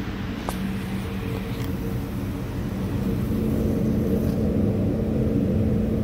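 2012 Chrysler 200's 3.6 L V6 engine running, heard at the tailpipe: a steady low rumble with a hum, which gets louder about three seconds in.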